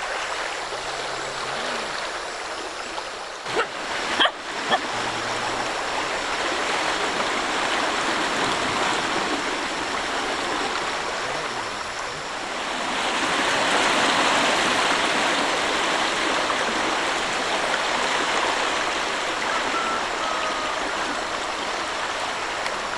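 Floodwater of the overflowing Mandar River rushing steadily, with a few brief knocks about four seconds in and the rush growing louder about halfway through.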